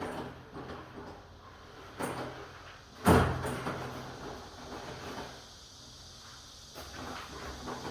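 Knocks and clunks from handling a wooden room door, the loudest a sharp knock about three seconds in, with a smaller one about a second before it.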